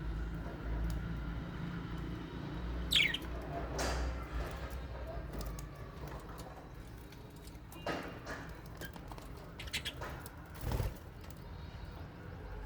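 Small parrots (lovebirds and budgies) in an aviary. One short call drops in pitch about three seconds in, followed by scattered light clicks and a few brief flutters of wings.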